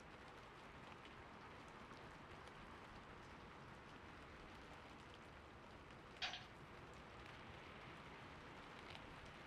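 Faint, steady gentle rain, with a single sharp click about six seconds in and a few fainter ticks.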